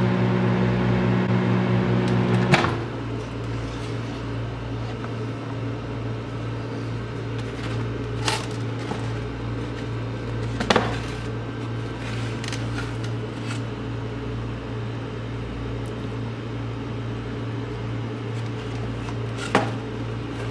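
Microwave oven running with a loud steady hum that cuts out with a click about two and a half seconds in, leaving a quieter steady hum. A few sharp pops follow, spread over the rest of the time.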